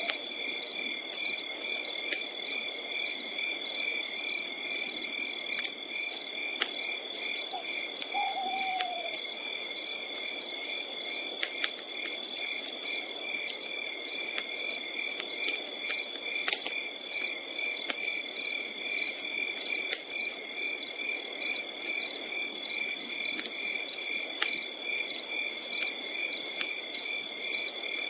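Night forest ambience: crickets chirping in a steady, rapidly pulsing trill, with a campfire crackling in scattered sharp pops. About eight seconds in there is one short falling hoot.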